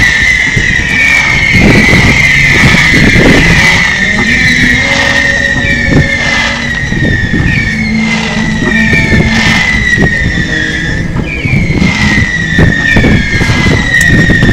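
Fireworks display: a rapid chain of whistling fireworks, each a shrill whistle sliding down in pitch for about a second, a new one starting about once a second. Bangs and crackles from the low bursts run underneath.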